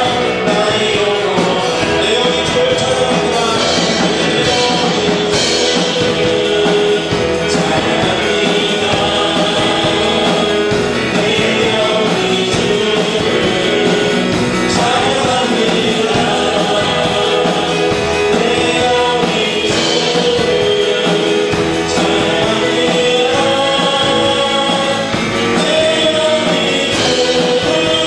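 Church worship music: several voices singing a praise song together over a full band accompaniment, steady and unbroken.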